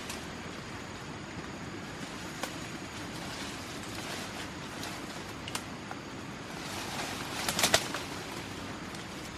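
Steady outdoor background hiss with a few light clicks, then a quick cluster of sharp knocks about three quarters of the way through.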